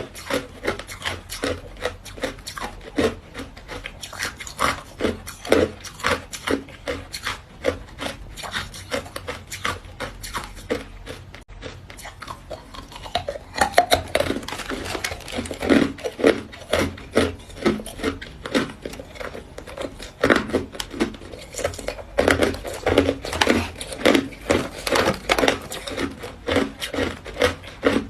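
Hard white ice being bitten and chewed: a continuous run of short, irregular crunches, several a second.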